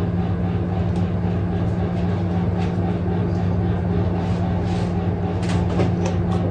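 A steady low mechanical hum, with a few faint light ticks in the second half.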